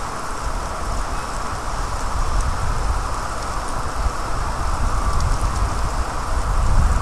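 Steady rain falling, a continuous hiss with faint scattered drop ticks, over a low wind rumble on the microphone.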